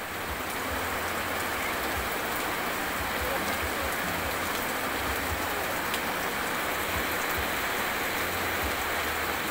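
Heavy tropical rain falling steadily, pattering on a corrugated metal roof sheet, with irregular low thumps underneath.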